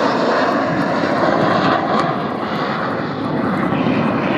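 Avro Vulcan B2 bomber's four Rolls-Royce Olympus turbojets, a loud, steady jet roar as it makes a pass overhead.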